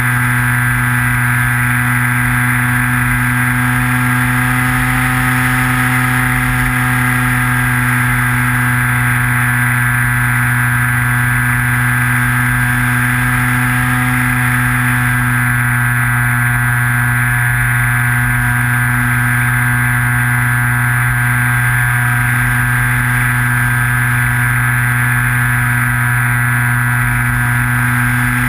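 Skywalker model plane's electric motor and propeller running at a steady throttle in flight, an even whine that hardly changes pitch, with wind rumbling on the onboard camera's microphone.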